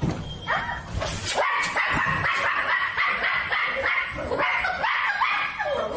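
Dog barking in a rapid string of short, high yips, several a second.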